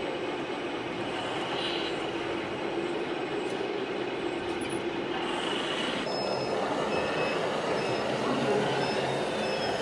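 Radio-controlled scale model vehicle running: steady grinding motor and gear noise, with a faint high squeal coming and going from about six seconds in.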